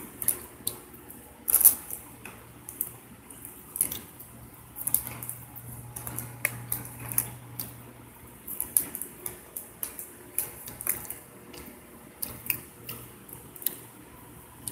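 Close-up chewing of crisp fried food: irregular crunches and wet mouth smacks, two or three a second, over a steady low hum.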